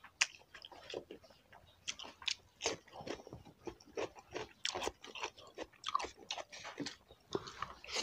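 Close-up eating sounds: people chewing and biting chicken and rice, with many short, irregular crunches and mouth smacks.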